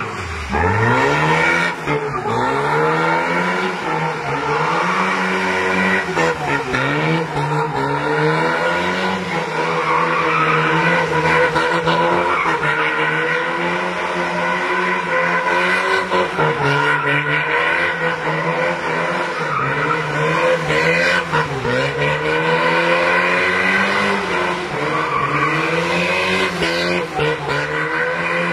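Tofaş car being drifted: its engine revving hard, the revs rising and falling over and over, with tyres squealing as the rear slides.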